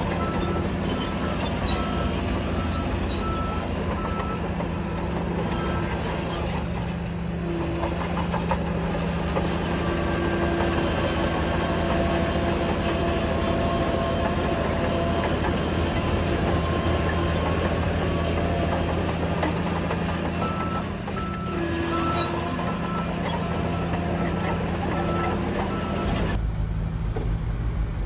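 Heavy diesel earthmoving machinery running steadily, with a reversing alarm giving evenly spaced beeps for the first several seconds and again for several seconds near the end. Near the end the sound turns abruptly duller.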